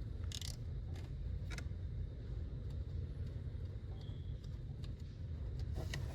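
A few light clicks and taps of hand work on the engine's ignition coils, three in the first second and a half and one near the end, over a steady low rumble.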